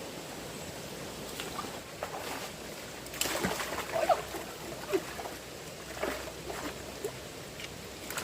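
Steady rush of fast-flowing stream water, with irregular splashes and sloshing starting about three seconds in as someone moves through the water.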